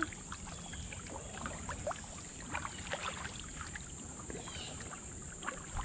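Kayak paddle strokes with scattered drips and small splashes of water, over a steady high-pitched insect chorus.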